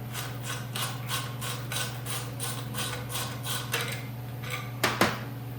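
Ratchet wrench being worked: a run of evenly spaced clicks, about three a second, then two louder knocks near the end.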